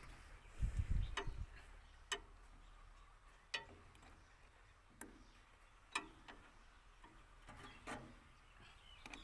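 A low thump about a second in, then a handful of sharp, irregularly spaced clicks or taps, roughly one to one and a half seconds apart.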